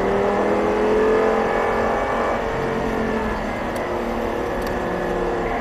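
Audi R8's V10 engine heard from inside the cabin, rising in pitch as the car accelerates under throttle, then levelling off and dropping a little in loudness a bit past halfway.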